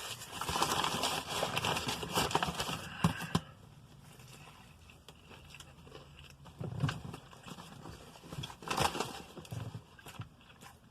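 Paper food wrapper crinkling and rustling as it is handled, dense for about three and a half seconds. It then quietens, with a couple of brief rustles later on.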